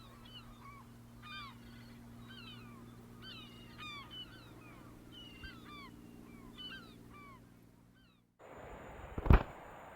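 Many birds calling together in short, repeated, curving chirps over a steady low hum. About eight seconds in the sound cuts abruptly, followed by a single loud knock.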